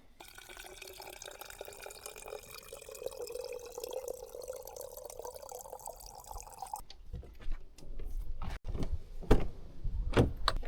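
Liquid pouring steadily into a container, its pitch rising as the container fills, for about seven seconds. It then cuts off abruptly to a low rumble with a few knocks.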